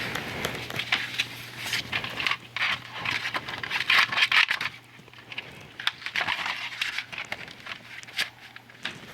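Irregular crackling, rustling noise with many sharp clicks, over a steady low hum.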